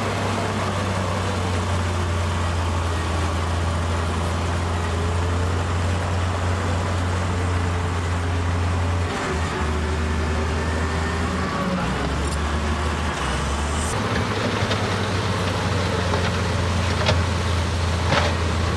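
Heavy diesel engine of earthmoving equipment running steadily under work, its low note dropping for several seconds about halfway through and then coming back up, as with a change of throttle or load.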